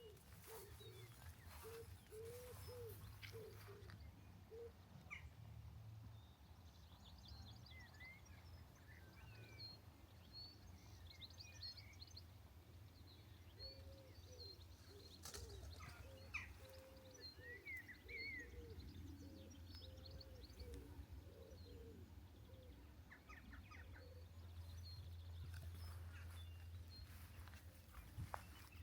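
Faint birdsong: small birds chirping and calling here and there, with a lower repeated call through parts of it, over a steady low hum.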